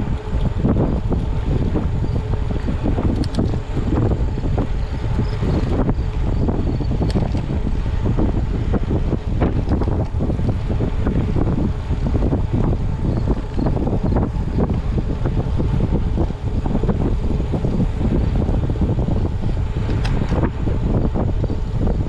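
Wind buffeting a microphone on a moving bicycle, a steady, fluctuating rumble from riding at speed.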